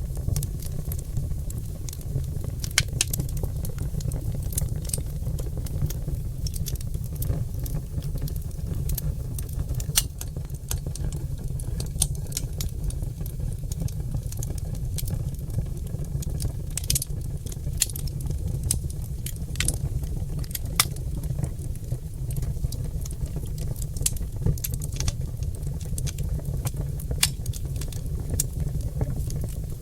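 Oak log fire crackling in a fireplace: irregular sharp pops and snaps over a steady low rumble.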